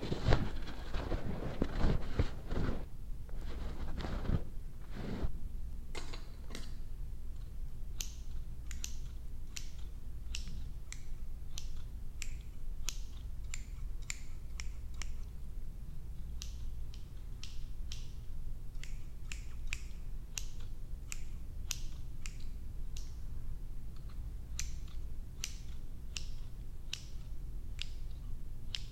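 Hair-cutting scissors snipping in short, sharp, irregular clicks, a couple each second, after a few seconds of denser rustling and rubbing at the start. A steady low hum runs underneath.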